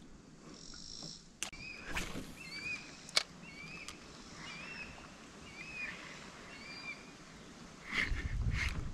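A bird calling a short, curved chirp several times at a steady pace, with a few sharp knocks in the first few seconds and a low rumble near the end.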